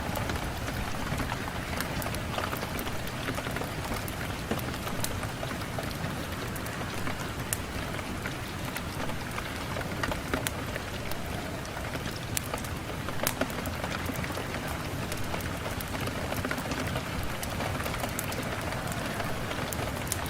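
Steady rain falling against a window glass, a continuous hiss sprinkled with frequent sharp ticks.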